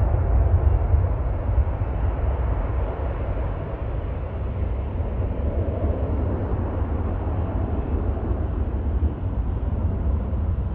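Boeing 777F freighter's twin GE90 turbofan engines heard as a steady deep jet rumble with a rough roar above it, easing off slightly as the aircraft moves away after takeoff.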